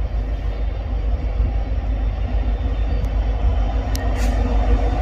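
Freight train rolling past with a steady rumble, with a few sharp clicks in the second half.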